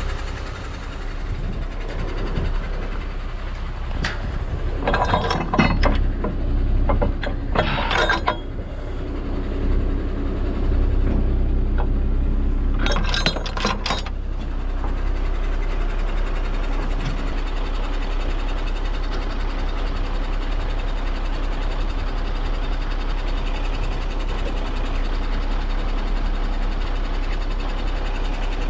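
Heavy tow truck's diesel engine running steadily, with a few short spells of metal clinking and clanking about five, eight and thirteen seconds in.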